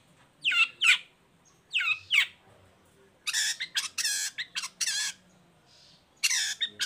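Long-tailed shrike calling: two pairs of quick downward-sweeping notes, then a run of harsh rasping chatter, and more rasps near the end.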